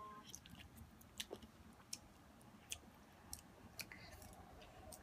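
A toddler chewing spaghetti: faint, irregularly spaced wet clicks and smacks of eating.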